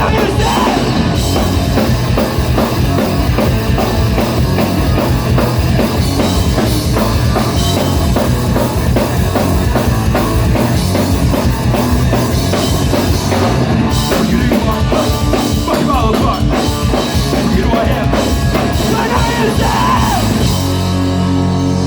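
Live rock band playing loud, with a busy drum kit and guitars. Near the end the drums stop and a held chord rings on.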